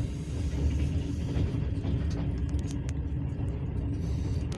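Steady low rumble of a passenger train rolling along the track, heard from inside the carriage, with a few light clicks in the second half.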